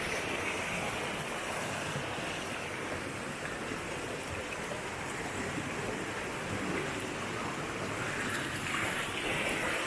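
Steady rushing of water from a waterfall and its stream, an even hiss with no breaks.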